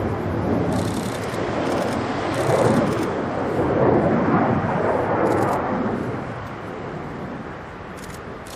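F-16 fighter jet engine noise, a loud rushing roar that builds to a peak a few seconds in and then fades as the jet flies past and away. Faint short clicks sound over it now and then.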